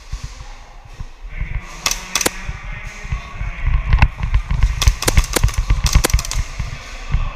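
Airsoft pistols firing: two sharp snaps about two seconds in, a single one at about four seconds, then quick strings of shots around five and six seconds, over a low rumble.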